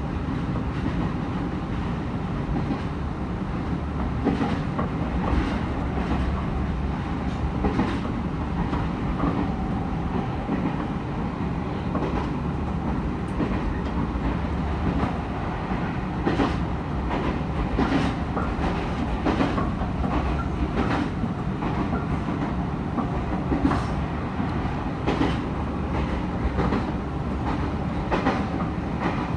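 Nankai electric commuter train running along single track, heard from inside the driver's cab. There is a steady low rumble, with the wheels clicking over rail joints every second or so.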